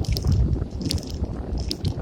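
Wind buffeting the microphone of a camera riding on a moving bicycle: a constant low rumble, with light irregular clicks and rattles.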